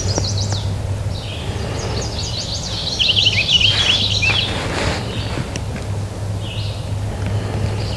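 Songbirds singing: runs of quick, high chirping notes, loudest about three to four and a half seconds in, over a steady low hum.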